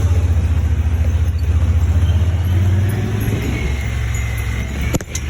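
Buggy engine running steadily under way, with a low, even pulse. A sharp click or knock comes near the end.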